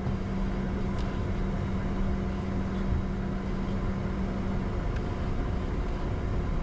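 Steady cockpit noise of a Bombardier Challenger 605 with its GE CF34 turbofans at idle while taxiing: a constant low rumble and airflow hiss with faint steady hums, one of which cuts off about three-quarters of the way through.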